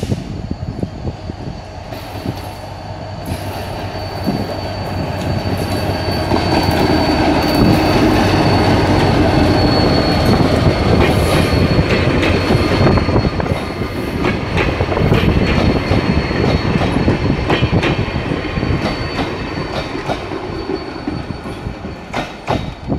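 Diesel locomotive hauling passenger coaches approaches and passes, its engine and the wheels swelling to a peak about eight seconds in and then fading as the train moves away. A steady high wheel squeal rings on the curve while the locomotive goes by, and wheels click over the rail joints as the coaches follow.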